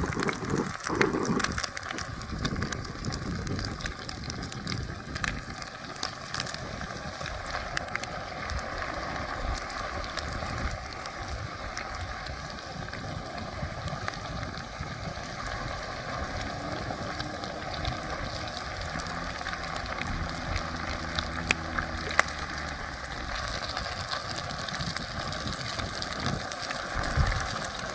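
Battered fish fillets deep-frying in very hot oil: a steady sizzle full of fine crackles.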